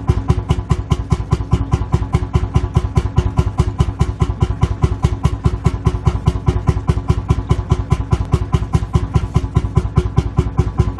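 Lanz Bulldog tractor's single-cylinder two-stroke hot-bulb engine idling, with an even, heavy beat of about five firing strokes a second.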